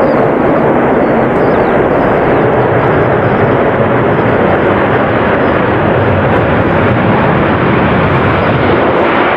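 Jet aircraft engines, loud and steady, close by.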